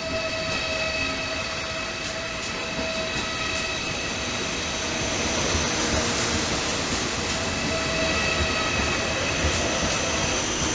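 A train moving slowly on the tracks: steady high-pitched tones over rumbling wheel and rail noise that grows louder about halfway through.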